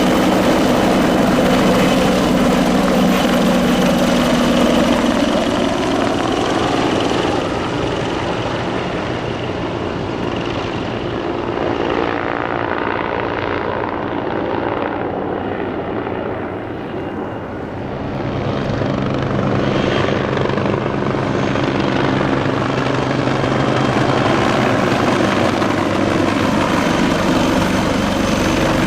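Bell 430 twin-turbine helicopter's engine whine and rotor noise, steady and loud. It turns quieter and duller for a few seconds in the middle, then grows louder and brighter again, as the helicopter moves off and comes back nearer.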